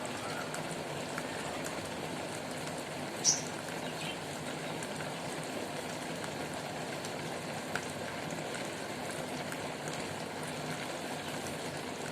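Small homemade water fountain running: a steady trickle and splash of falling water. A short, high, bird-like chirp about three seconds in.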